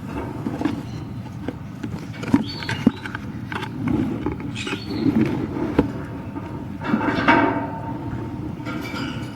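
Conures, the chicks and their parents, giving scattered short chirps and squawks.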